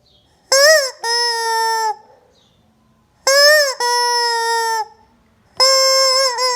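Rubber squeaky chicken toy squeezed three times. Each squeeze gives a short warbling squawk that runs straight into a steady, high squeal lasting about a second.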